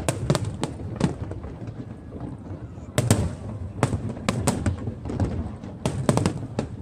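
Fireworks going off, a rapid irregular string of sharp bangs and cracks over a low rumble, with the loudest bang about three seconds in.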